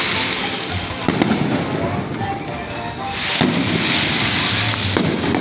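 Fireworks going off: sharp bangs about a second in, again after about three and a half seconds and a few close together near the end, over a dense crackling hiss.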